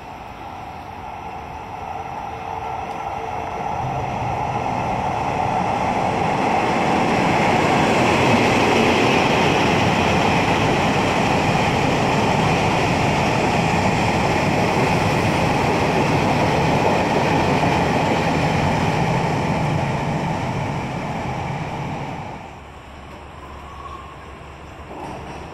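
A Taiwan Railways train passing close by: its running noise builds over several seconds, stays loud for about a dozen seconds, then drops off sharply a few seconds before the end.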